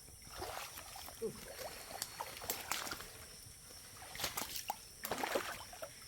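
Footsteps squelching and clicking on wet, muddy ground, under a steady high insect drone.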